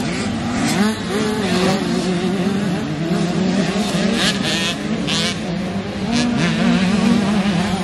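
Several motocross bikes running on the track, their engine pitch rising and falling as the riders rev and shift, with one steadier engine note underneath.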